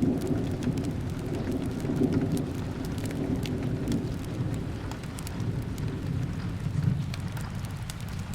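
Steady rain with a low rolling rumble that slowly fades, and scattered sharp crackles from a fireplace.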